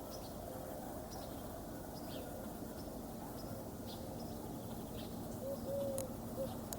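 Pigeons cooing, a low repeated call that grows louder about five and a half seconds in, with small birds chirping high in the background.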